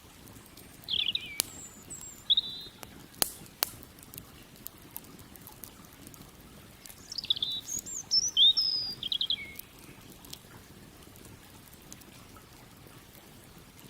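A songbird singing two short bursts of high chirps and trills, about a second in and again around seven seconds in. A few sharp pops from a crackling campfire come in the first few seconds, over a faint steady rush of river water.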